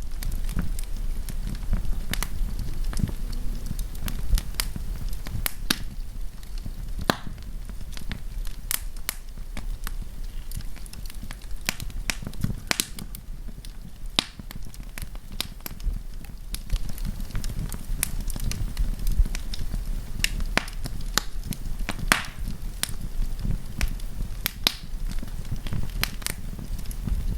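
Wood campfire burning, crackling and popping in sharp irregular snaps over a low steady rumble of flame.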